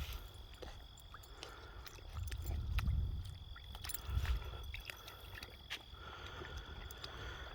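A puppy in a shallow puddle: small irregular splashes and ticks of water. Gusts of low wind rumble on the microphone come and go.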